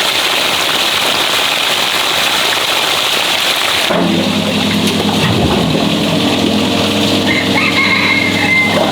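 A steady rain-like hiss of rushing water, which changes abruptly about four seconds in to a small engine running at a steady speed, with an even low hum.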